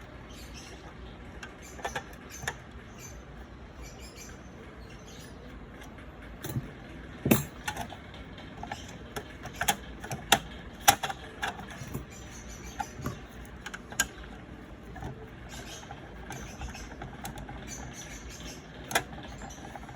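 Irregular sharp clicks, taps and light knocks of small parts and tools being handled, over a steady background hiss; the loudest knocks fall in the middle stretch.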